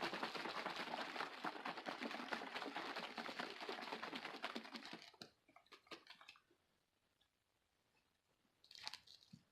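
Plastic bottle of water shaken rapidly by hand for about five seconds, its push-cap held down so the vitamin powder mixes into the water; the shaking then stops, with a brief faint handling noise near the end.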